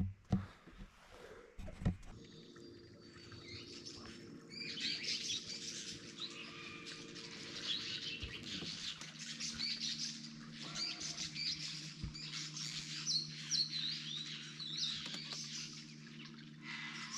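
Many birds chirping and calling over one another, with quick twittering notes starting about four seconds in, over a faint steady low hum.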